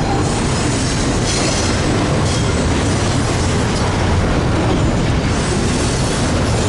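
Freight train rolling past, a steady loud rumble of wheels and cars on the rails, with a faint high wheel squeal now and then.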